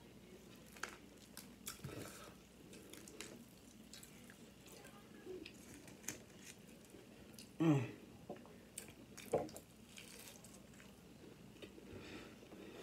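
Close-miked chewing and wet mouth smacks of someone eating breaded onion rings and chicken tenders, with scattered small clicks. About eight seconds in there is one short vocal sound that falls in pitch, and a sharper smack follows a second later.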